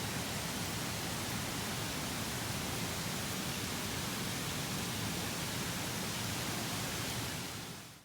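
Steady rush of water from a large waterfall, fading out near the end.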